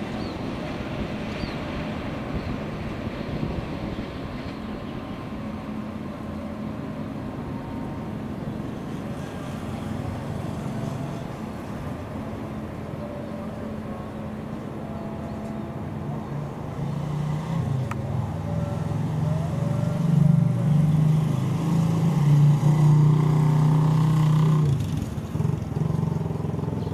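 Freight train of fuel tank wagons rolling away along the track, a steady rumble of wheels on rail. About two-thirds of the way through, a louder steady engine drone from a nearby motor vehicle comes in, then stops abruptly near the end.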